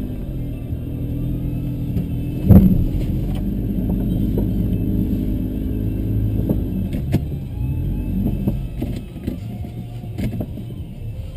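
Car engine running as the vehicle drives slowly through snow, with one loud thump about two and a half seconds in and a few sharp knocks later.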